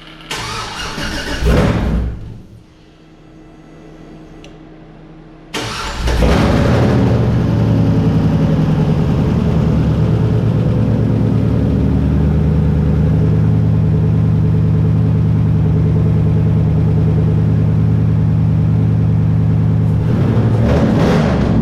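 Supercharged 6.0 LS V8 from a fresh engine build runs for about two seconds and cuts off. It fires again about five and a half seconds in and settles into a steady idle, with the revs rising briefly near the end.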